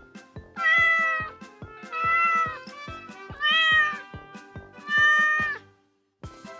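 A domestic cat meowing four times, each meow under a second long, over background music with a steady beat.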